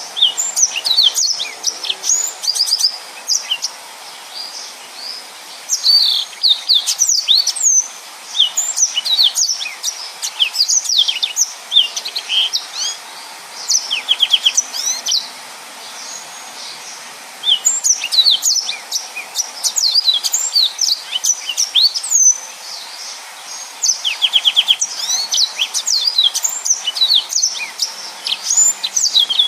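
Yellow-fronted canary (Mozambique canary) singing a dense, rapid song of high chirps, trills and quick swooping notes, in phrases broken by short pauses.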